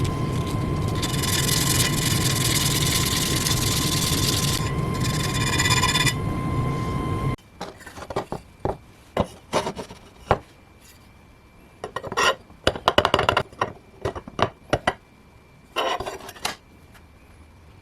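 A power tool runs with a steady whine and cuts off abruptly about seven seconds in, followed by irregular hand strokes of rubbing or scraping on the workpiece.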